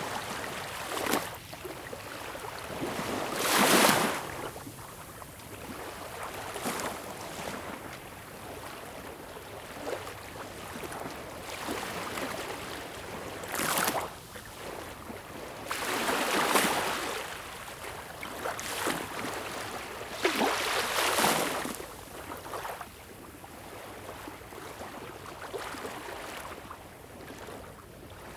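Sea waves breaking and washing in, with a steady wash of surf between them and louder breaks at about 4, 14, 17 and 21 seconds in.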